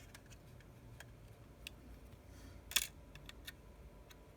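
Light clicks and taps of a small hand tool on an iPhone 6s's internal parts while tiny screws are removed from a small metal plate. There are a few scattered faint ticks and one sharper click a little past halfway.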